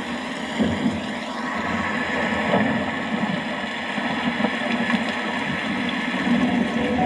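Steady rain with a low rumbling undertone, an unbroken wash of noise without distinct thunderclaps.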